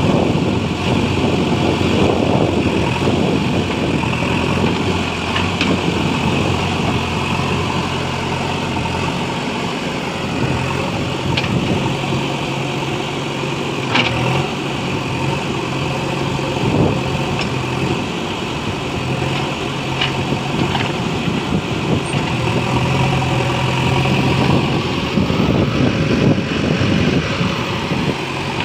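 Heavy machine's diesel engine running under load, its speed stepping up and down now and then, with a few sharp clicks or knocks.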